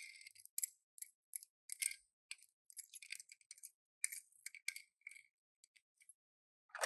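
Irregular light clicks, taps and rustles, a few a second, from small plastic packaging and die-cast toy cars being handled during unboxing.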